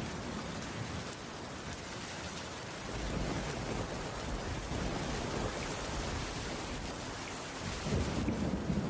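Steady rainfall pattering on a wooden cabin roof, with low rumbles of distant thunder swelling about three seconds in and again near the end.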